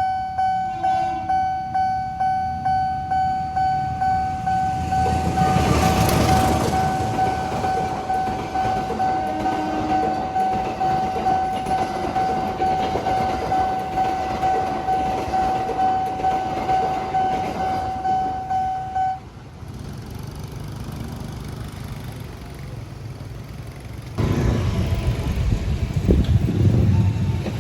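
Nippon Signal level-crossing alarm ringing a steady electronic ding about twice a second while a train rumbles through, starting about five seconds in. The alarm stops about two-thirds of the way through, and near the end road traffic with motorcycles starts up and moves off.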